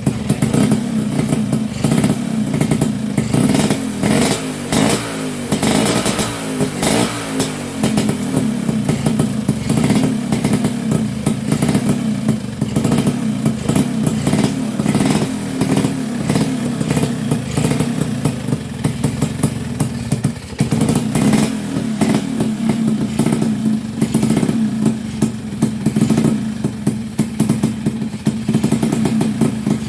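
Vespa PX two-stroke single-cylinder scooter engine running with a rattly clatter, its revs rising and falling a few times in the first several seconds, then holding a steady run after a brief dip partway through.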